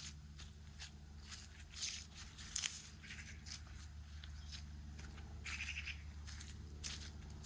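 Footsteps crunching on gravelly ground, an irregular step roughly every second, over a steady low hum.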